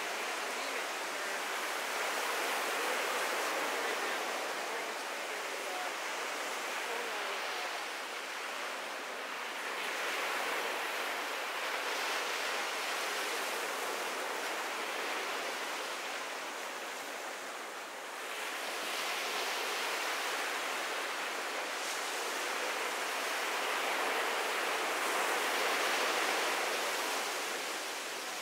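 Ocean waves breaking and washing up a sandy beach: a steady surf hiss that swells and eases every several seconds.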